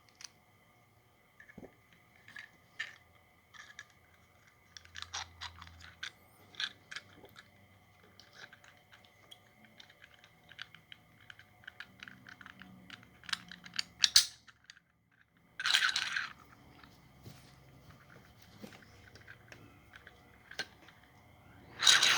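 Scattered light clicks and taps of 3D-printed plastic engine parts being handled, pulled apart and fitted back together, with a brief rushing noise about two-thirds of the way through. Just before the end, the 3D-printed V-twin air engine starts running loudly and rapidly.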